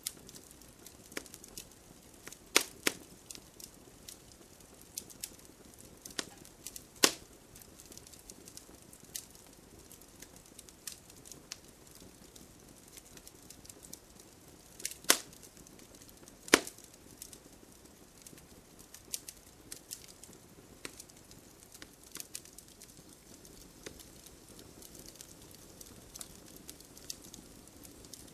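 Wood fire crackling: a low steady hiss with scattered small crackles and several sharp, louder pops, the biggest about 2.5, 7, 15 and 16.5 seconds in.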